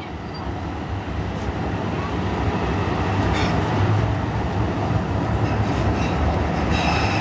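Pittsburgh T light-rail car running through the subway tunnel, heard from inside the car: a steady rumble of wheels on rail that grows louder as the car picks up speed, with a faint high wheel squeal creeping in near the end.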